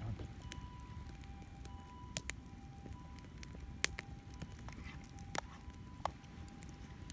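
Campfire of cedar and oak firewood crackling, with several sharp pops, the loudest almost four seconds in. Behind it a distant Japanese ambulance siren sounds its two-tone hi-lo "pee-po" throughout, over a low steady wash of surf and wind.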